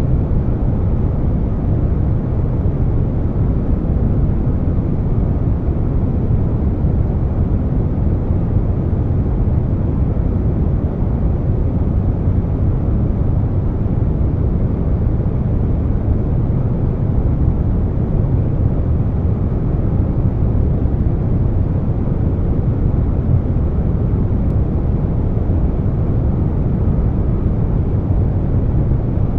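Air conditioner running steadily, blended with brown noise: an even, deep rush of noise, heaviest in the bass, that never changes.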